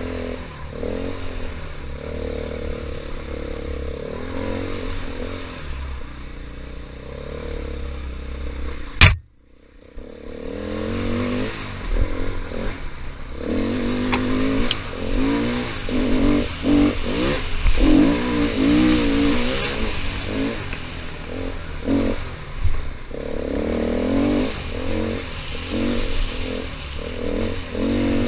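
KTM 500 EXC's single-cylinder four-stroke engine on a dirt trail, revving up and falling back again and again as the throttle is worked, with some clatter. About a third of the way in there is a sharp crack and the sound briefly drops away before the engine picks up again.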